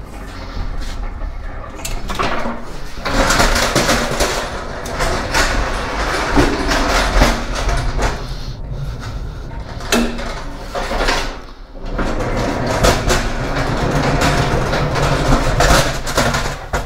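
Packages being unloaded from a semi trailer: boxes knocking, sliding and clattering in irregular bursts, with a short lull about twelve seconds in.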